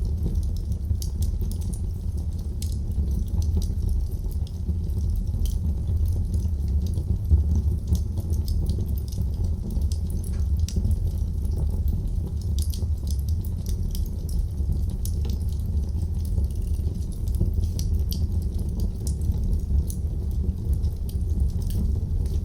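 Wood fire burning in a fireplace: a steady low rumble of flame with many small, sharp crackles and pops.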